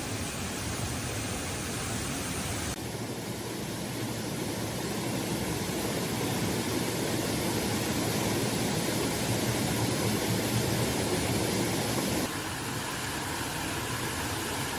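Heavy rain falling: a steady rushing hiss that shifts abruptly in tone about three seconds in and again near the end.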